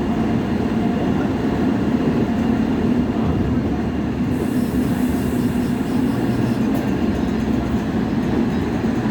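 Train moving along the track: a steady rumble with a constant low hum.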